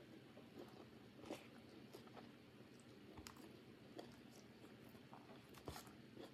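Faint chewing of food close to the microphone, with a few soft clicks, about three in all, spread through it.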